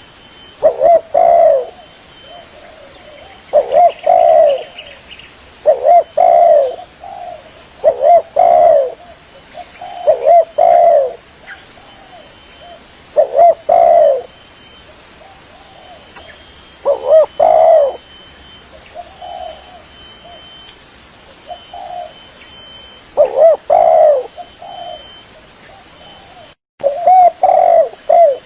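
Spotted dove (tekukur) cooing over and over, a short phrase of a few coos about every two seconds with quiet gaps between. The sound cuts out for a moment near the end.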